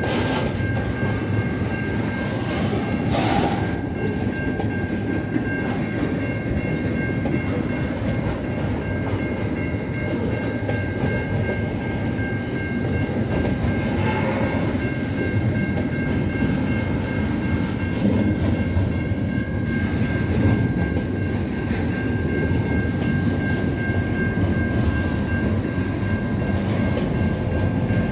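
A train running along the track: a steady rumble with a constant high-pitched whine over it, and occasional clacks from the wheels.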